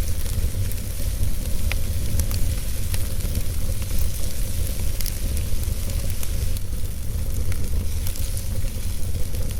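Wood fire burning in a fireplace: scattered sharp crackles and pops over a steady low rumble and hiss.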